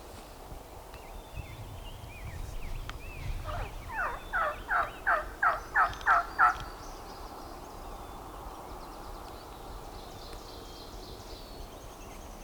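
A turkey yelping: a series of about eight sharp, falling notes, a little over three per second, starting about three and a half seconds in, with faint songbird chirps around it.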